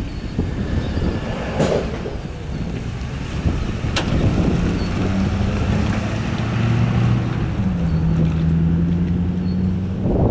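McDonnell Douglas DC-9's twin Pratt & Whitney JT8D-7A engines running with a steady rumble and airflow noise. Among the low hums, one drops slightly in pitch about eight seconds in. Two faint clicks come in the first half.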